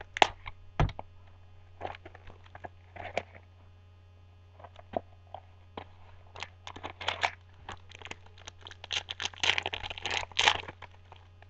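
A trading-card pack wrapper being torn open and crinkled in scattered bursts, the busiest and loudest crinkling near the end, with a couple of sharp knocks in the first second.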